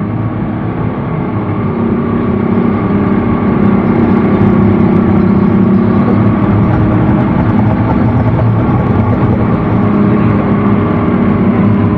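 Speedboat engine running hard, getting louder over the first few seconds as the boat gets going, then holding a steady drone.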